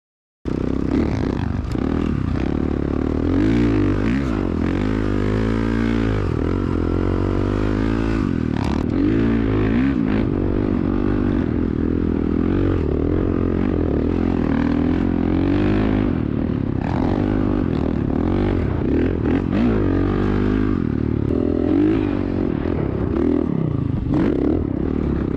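Dirt bike engine being ridden hard, revving up and down over and over as the throttle is worked.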